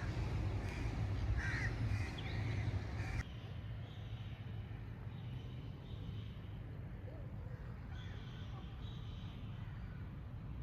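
Crows cawing again and again over a low background rumble. About three seconds in, the rumble drops and the high end cuts off abruptly, and the cawing carries on more faintly.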